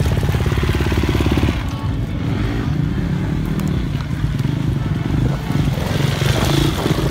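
Motocross bike engine running under throttle, with a rapid firing pulse for about the first second and a half, then a lower, steadier note.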